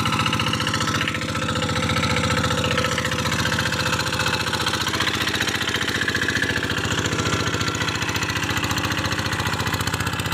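Quick G1000 Boxer hand tractor's Kubota diesel engine running steadily with an even, rapid firing beat while working the ground with its ridging plough.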